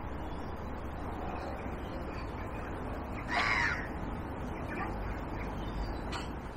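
A bird calling, crow-like: one loud call about halfway through, with a few fainter calls before and after, over a steady low rumble.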